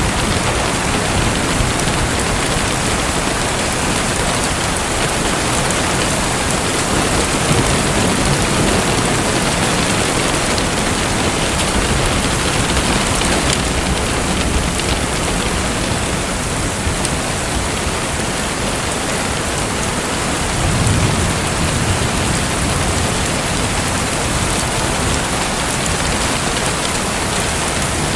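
Steady hiss of splashing, pattering water, with a brief low rumble about two-thirds of the way through.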